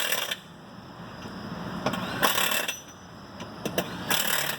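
Pneumatic impact wrench fired in several short bursts of under half a second each, with pauses between, running lug nuts onto a monster truck wheel.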